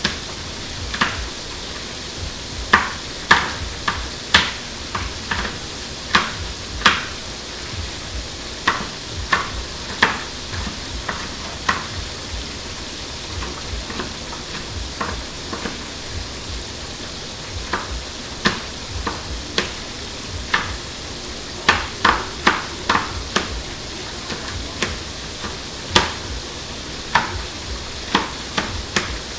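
Kitchen knife tapping on a cutting board in irregular strokes while dicing a jalapeño, over the steady sizzle of chicken frying in oil.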